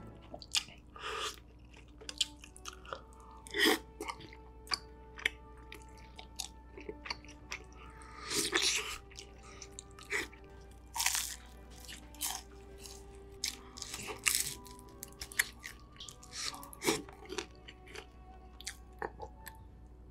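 Close-miked chewing of spicy rice cakes, with irregular wet clicks, smacks and soft bites. Faint background music runs under it.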